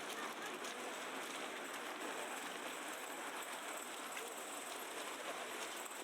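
Steady wet hiss of a city street in heavy falling snow, slush and meltwater on the pavement and road, with faint voices of passers-by now and then.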